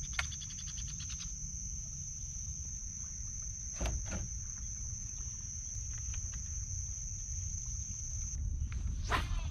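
Steady high-pitched drone of marsh insects over a low rumble, with a quick run of ticks just after the start and a few sharp clicks around the middle and near the end.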